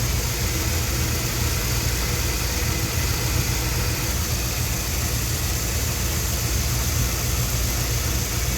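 1973 Dodge D100 pickup's engine idling steadily, heard up close under the hood.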